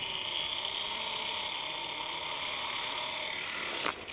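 Brushless motor and rotor of a WLtoys V950 RC helicopter running with a high whine that rises slowly in pitch, then holds steady, over a rushing hiss. Near the end there is a sharp knock and the motor noise drops away abruptly.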